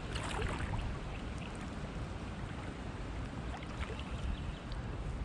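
Kayak paddle strokes in calm water, with small splashes and drips off the blade as the sea kayak glides along.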